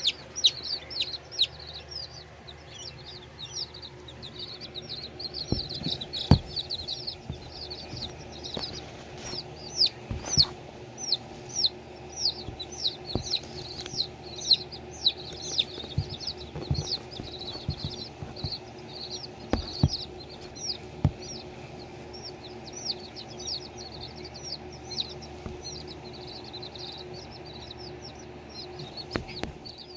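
Baby chicks peeping continuously, a rapid run of short, falling-pitch peeps, with a few soft thumps here and there and a steady low hum underneath.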